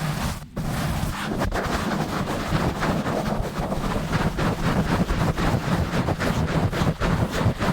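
Fast, rough rubbing and scratching directly on a bare microphone: a dense, rumbling handling noise made of rapid strokes, with a brief break about half a second in.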